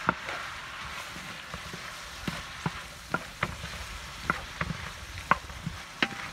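Shallots, tomatoes and dried chillies sizzling in oil in a large metal kadai, stirred with a wooden spoon that clicks and scrapes against the pan about a dozen times.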